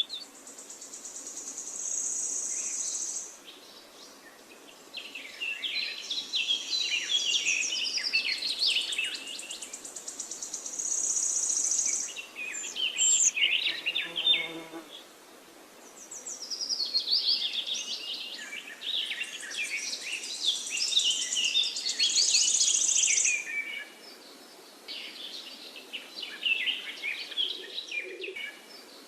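Wild birds singing and chirping in overlapping phrases. Several bouts of a few seconds each are separated by short lulls, with a high, rapid buzzing trill repeating at intervals.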